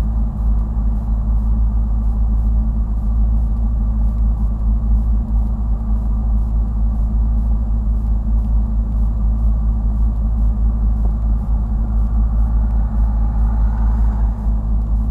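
Car engines idling at a standstill, heard from inside a car's cabin as a steady low rumble.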